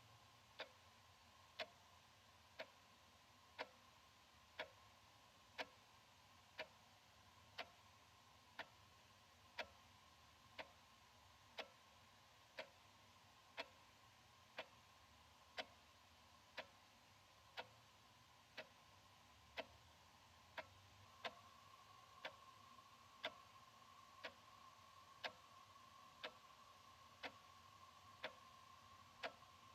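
Analog wall clock ticking evenly, about one tick a second, with a faint steady hum underneath.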